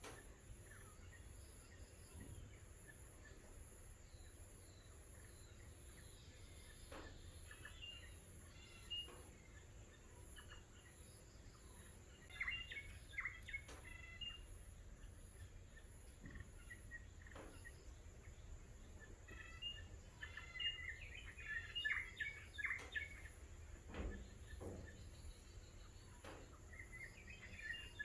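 Small birds chirping faintly in scattered bursts of quick, high notes, with stretches of near quiet between them.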